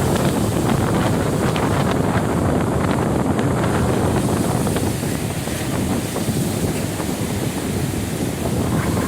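Strong gusting wind buffeting the microphone, a steady heavy rumble, with waves breaking on the Lake Ontario shore beneath it.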